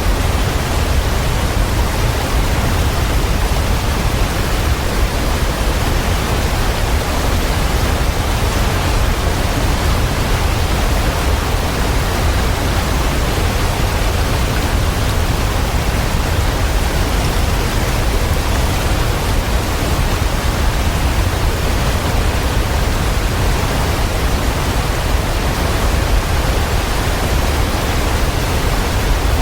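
Waterfall rushing steadily: an even, unbroken wash of water noise, heaviest in the deep low end, with no separate splashes or changes.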